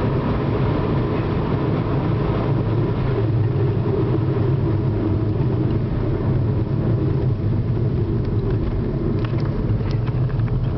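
Steady engine and road rumble inside the cabin of a Corsa D 1.7 CDTi, a four-cylinder turbo-diesel car, on the move. The pitch neither rises nor falls, and a few faint clicks come near the end.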